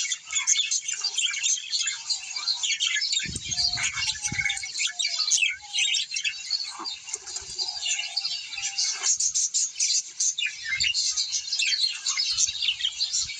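A flock of small birds chirping and chattering continuously, many short calls overlapping. A few low thumps come about three to four seconds in.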